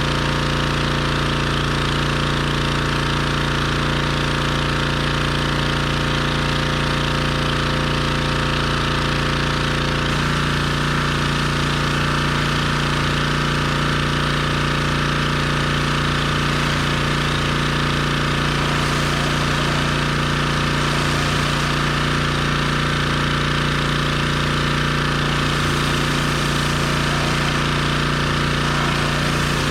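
Gas-engine pressure washer running steadily, with its tone shifting abruptly about ten seconds in.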